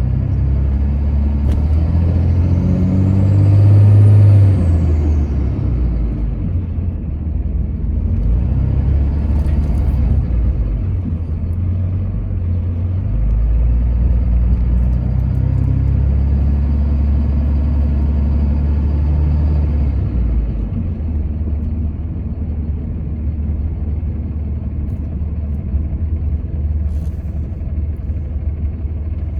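Continuous low rumble of a vehicle on the road, loudest about four seconds in, with a faint whine that rises and then falls around the same moment.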